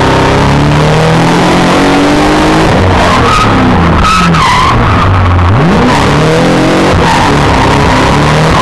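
BMW E36 with a 4-litre, 286 hp engine being driven hard in a drift, heard from inside the cabin: the engine revs climb and fall again and again, with tyres squealing and skidding. About five and a half seconds in, the revs drop low and then sweep sharply back up.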